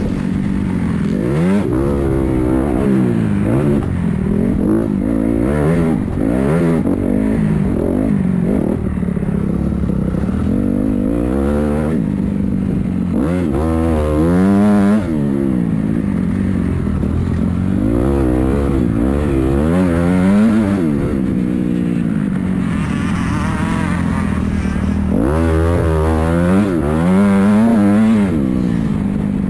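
Motocross dirt bike engines running on a track, revving up and easing off again and again as riders accelerate, with several bikes heard over one another.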